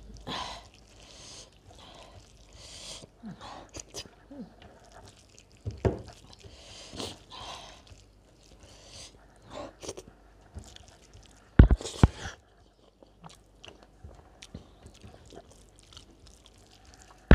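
A person chewing rice and dal eaten by hand, with repeated wet mouth smacks, and two sharp clicks close together about twelve seconds in that are the loudest sounds.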